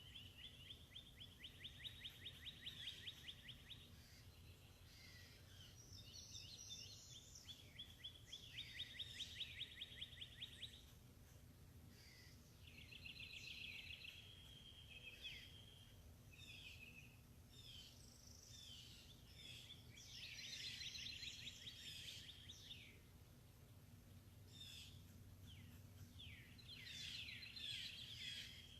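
Faint songbirds singing: several birds overlapping, with fast even trills and short chirps and sweeps, over a steady low hum.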